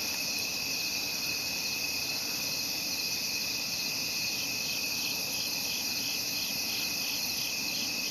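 Crickets chirping in a steady high drone, with a faint pulsing chirp of about two a second joining from around halfway.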